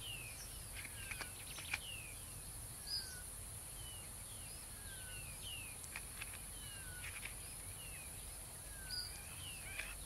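Faint outdoor ambience: small birds giving many short, falling chirps, scattered throughout, over a steady high hiss with a few soft clicks.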